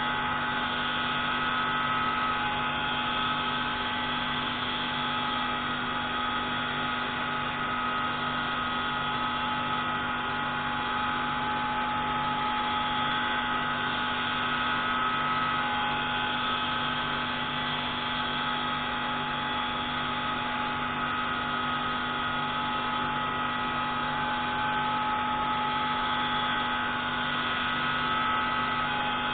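Pneumatic valve-grinding tool running steadily on a MAK 601C marine engine intake valve, a constant whine with several fixed tones over a hiss and no change in speed or load.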